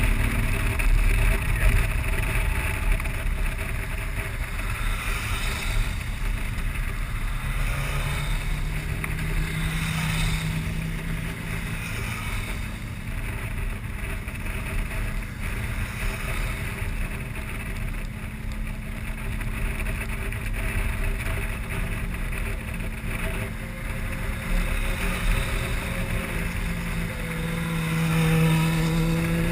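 Motorcycle engine running under way, with wind rushing over the action camera's microphone; the engine note climbs about eight seconds in and again near the end as it accelerates.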